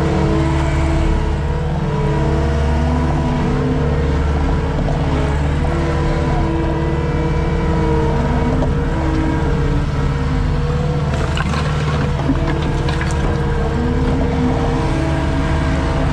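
Skid steer engine running steadily, its pitch drifting slightly up and down, with a few short knocks and rattles about eleven to thirteen seconds in.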